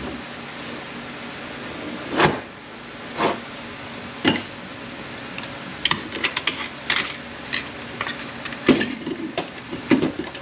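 Metal transmission parts (races, washers and clutch pack pieces) clinking and knocking against each other and the workbench as they are handled and set down. There are scattered single clinks at first, then a busier run of them in the second half.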